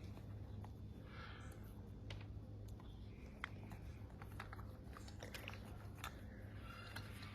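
Military macaw's beak working at a parrot toy: irregular sharp clicks and small crunches as it bites and chews. A steady low hum runs underneath.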